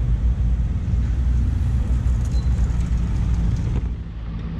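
A small motorcycle engine running, close to the microphone, with a dense low rumble. A little before the end the sound drops suddenly to a quieter, steadier motorcycle idle.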